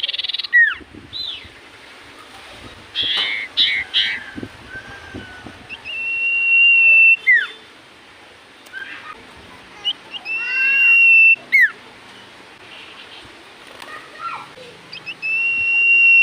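Common iora singing: three long, level whistled notes, each held about a second and ending in a quick downward slur, with shorter chirps and rising-and-falling notes between them.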